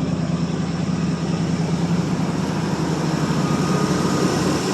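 1985 Chevrolet C10's 305 small-block V8 running steadily on fast idle soon after a cold start, a low steady exhaust drone whose low note softens slightly about two seconds in.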